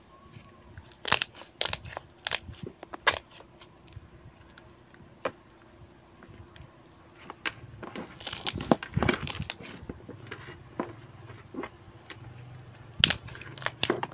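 Homemade glue slime being squeezed and pressed by hand, with scattered sticky crackles and pops as air pockets burst, bunching up about eight seconds in.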